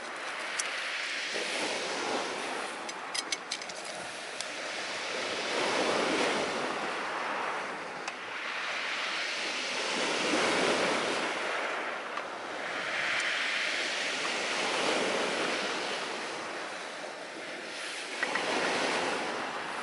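Ocean surf breaking and washing ashore in slow swells every few seconds, with a few small crackles from a wood fire about three seconds in.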